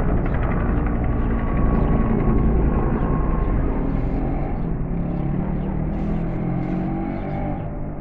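An engine running with a steady low rumble that eases slightly near the end.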